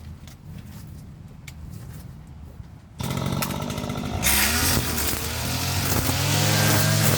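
Petrol lawn mower engine starting about three seconds in, revving up with a rising pitch, then settling into a steady run. Before it starts there is only a quiet low hum with a few clicks.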